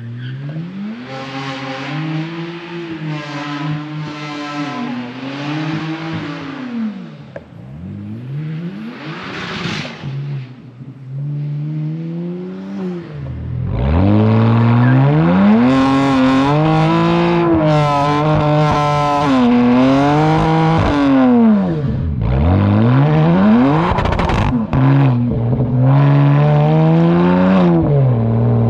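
Exhaust of a 2009 BMW 335xi's twin-turbo inline-six, run with catless downpipes and no muffler. The engine is revved hard, its pitch climbing and dropping again and again, and it gets much louder about halfway through.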